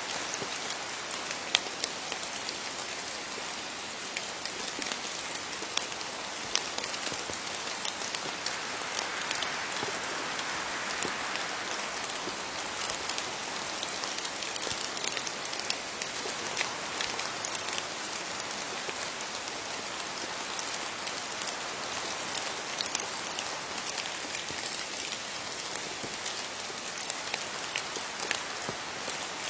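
Steady rain falling on leaves, an even hiss with many separate drops pattering and ticking on the foliage.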